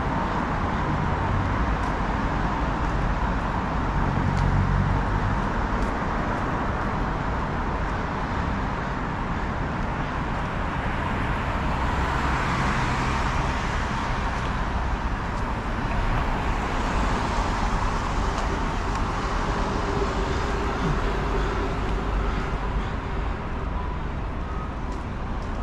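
Road traffic on a city street: a steady rumble of engines and tyres, with cars passing by about halfway through and again a few seconds later.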